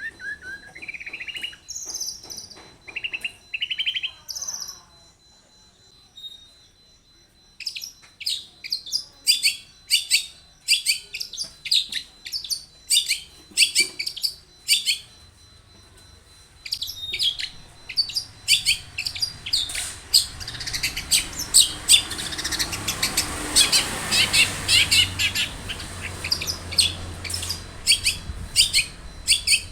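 Long-tailed shrike singing: a few rising whistled notes at first, then after a short pause a long run of short, high, sharp notes repeated about twice a second, growing denser in the second half over a background hiss.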